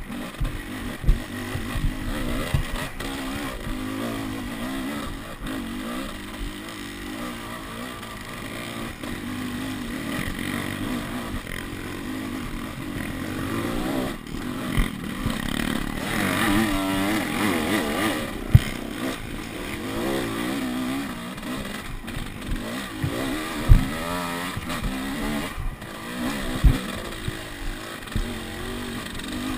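Dirt bike engine running on a trail ride, its revs rising and falling as the throttle opens and closes. Sharp knocks and clatter come through now and then, the strongest near the middle and toward the end.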